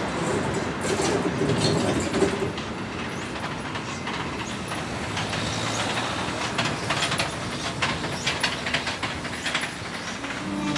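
Museum train running past on the track, its wheels clattering over the rail joints.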